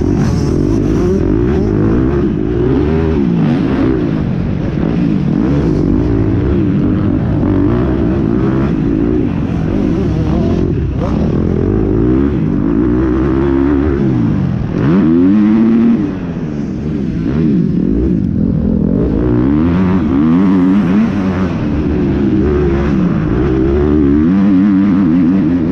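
Motocross dirt-bike engines revving, their pitch rising and falling over and over as the throttle opens and closes, with a sharp rise and fall about fifteen seconds in.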